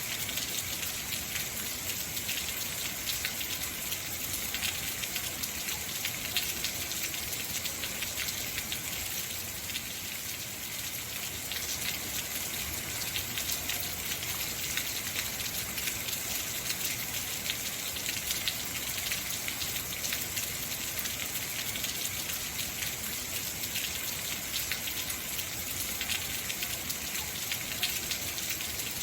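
Steady heavy rain, a dense hiss with many fine drop ticks from raindrops striking surfaces.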